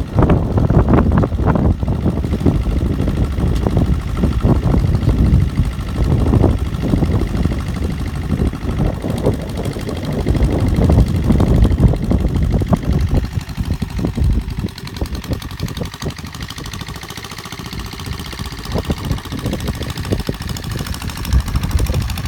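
Custom-made mini tractor's engine running with a rapid, even chugging while it works a field. It grows somewhat quieter for a few seconds past the middle, then louder again.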